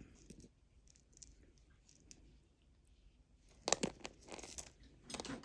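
Faint handling noises from a necklace being turned over in the hands: scattered light clicks, then a few short, louder crunchy rustles about four and five seconds in.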